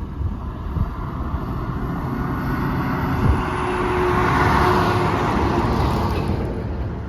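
A vehicle driving past, its tyre and engine noise swelling to a peak about four to five seconds in and then fading, over a steady low rumble of wind.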